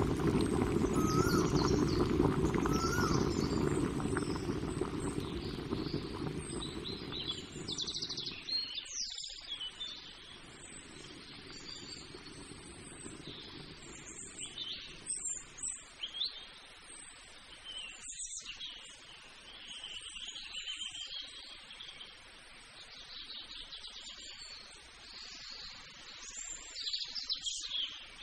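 Birds chirping and calling throughout, with many short high chirps and a repeated rising whistle near the start. A low steady rumble is loudest at first and fades away over the first eight seconds or so.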